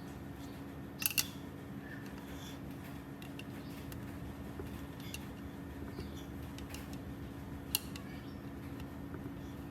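A few short, sharp clicks over a steady low hum: a quick double click about a second in, a single one near the end, and fainter ticks in between.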